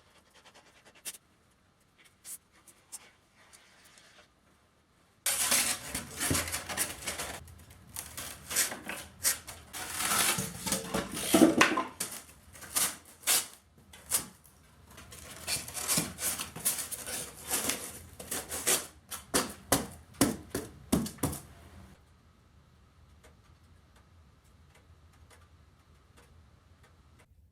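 Irregular knocking and clattering, a dense run of sharp taps and bangs that starts suddenly about five seconds in and stops abruptly near 22 s, after a few faint clicks.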